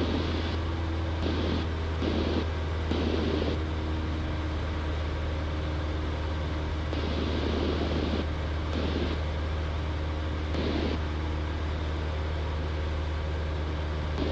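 Cessna 172's piston engine and propeller droning steadily in flight, heard from the cockpit, with several short rushing bursts of noise over it.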